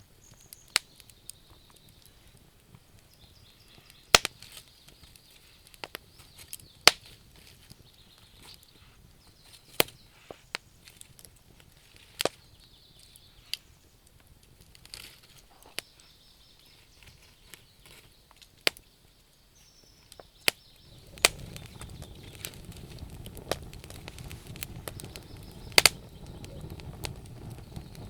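Wood fire crackling, with sharp, irregular pops and snaps from the burning logs. About two-thirds of the way in, a steady low rushing noise comes in under the pops.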